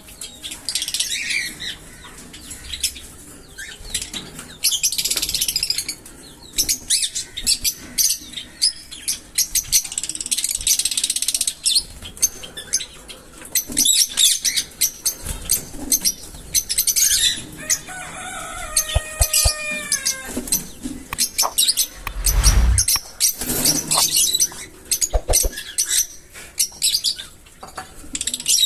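A flock of small pet parrots chattering with dense high chirps and sharp clicks throughout. A few falling whistled calls come about two-thirds of the way in, followed by a low flutter or thump.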